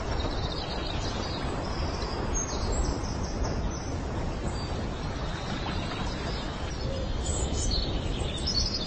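High, thin bird chirps in short series, near the start, about three seconds in and again near the end, over a steady low rumbling hiss.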